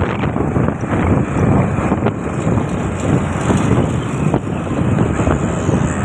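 Steady traffic and road noise heard from a moving motorcycle, with wind on the microphone.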